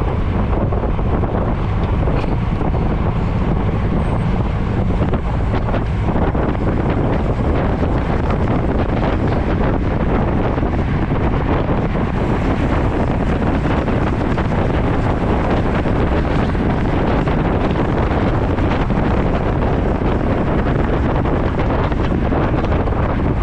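Steady, loud wind noise rushing over the microphone of a camera on a road bike in motion.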